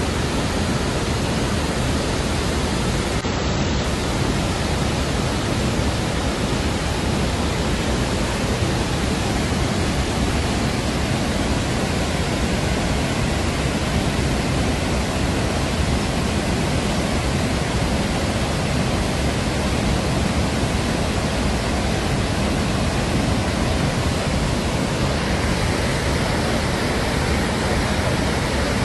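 Steady, unbroken rush of a large waterfall's falling water.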